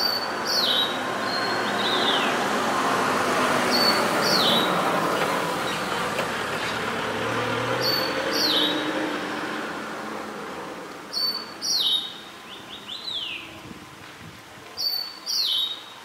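Steere's liocichla singing: five short phrases, each a high note dropping into a downward-sweeping whistle, a few followed by a quick run of falling notes, repeated about every four seconds. A broad rushing background noise is loud through the first half and fades out about eleven seconds in.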